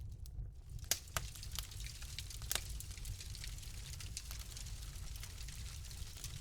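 Wood fire crackling in a fireplace: irregular sharp pops and ticks, the loudest about a second in and again about two and a half seconds in, over a steady low rumble.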